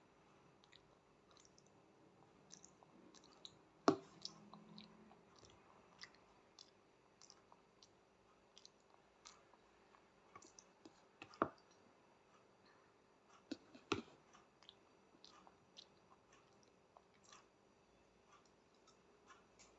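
Quiet eating sounds of a small child eating pasta: scattered small clicks and mouth noises, with three sharper clicks, about 4, 11 and 14 seconds in.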